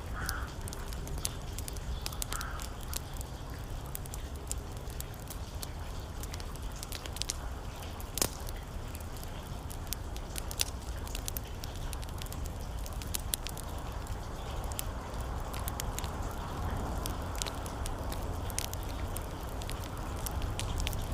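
Wood fire crackling in a fireplace, with irregular sharp pops and one louder snap about eight seconds in, over a steady wash of rain. A crow caws twice in the first few seconds.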